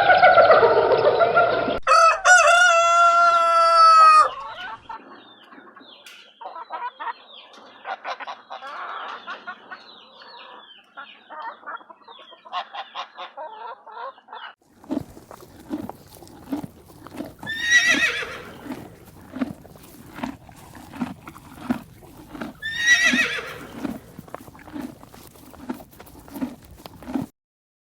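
Chickens: a rooster crows about two seconds in, followed by scattered clucking, then a steady run of clucks about two a second broken by two louder calls.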